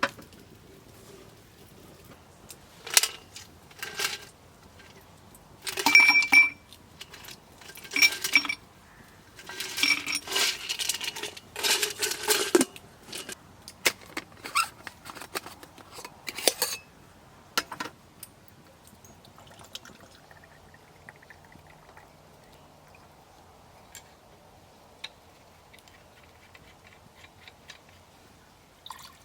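Clinks and rattles of drinkware and camp utensils being handled, in clustered bursts, some with a brief ringing tone; the handling dies down after about eighteen seconds to a few faint ticks.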